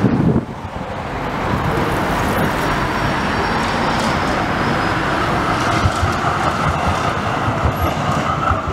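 Electric street tram running past, its steady rail and motor noise mixed with city traffic, getting a little louder towards the end.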